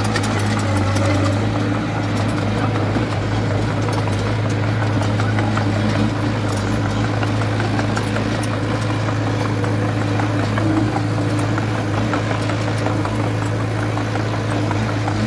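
Small Komatsu D20A bulldozer's diesel engine running at a steady speed, with a constant low hum and faint scattered clicks.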